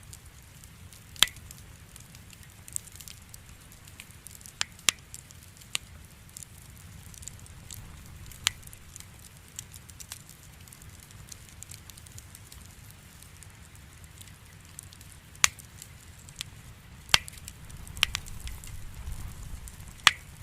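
Campfire burning: firewood crackling with scattered sharp pops, about ten, over a low steady rumble and hiss. The low rumble swells near the end.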